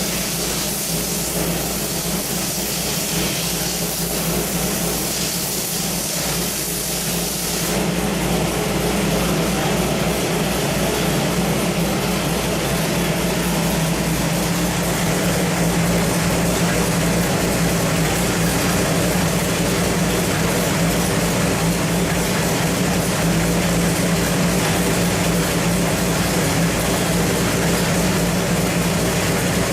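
Small-block Chevrolet 383 stroker V8 running steadily on an engine dyno at a constant speed, with a steady hiss over it. The sound changes about eight seconds in and then holds a little louder.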